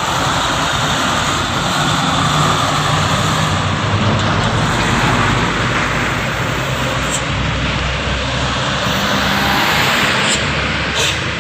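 Truck engine running loud and steady, its low drone drifting slightly in pitch, with heavy road and mechanical noise over it.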